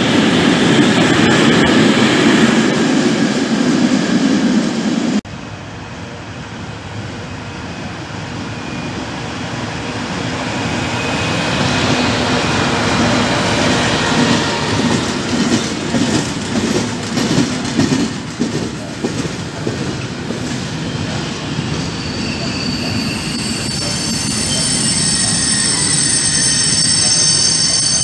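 Freight wagons rolling past on the rails. About five seconds in, the sound drops off abruptly and then builds again as a train of closed and empty flat wagons goes by. In the last several seconds a steady high-pitched wheel squeal sets in.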